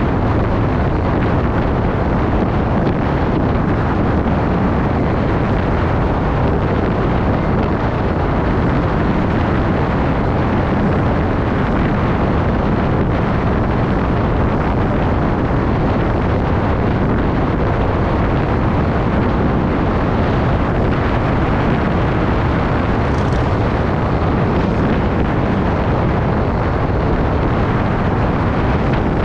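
Steady wind rushing over the microphone while riding along, a constant loud rush with no breaks.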